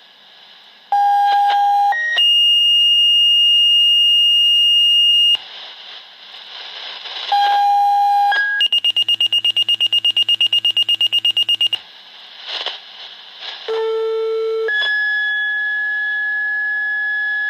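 Fire department pager receiving two-tone dispatch pages: three sets of steady tones, each a short lower tone followed by a longer higher tone. In the middle set the higher tone comes as rapid beeping, about eight beeps a second, and the last set's higher tone runs to the end.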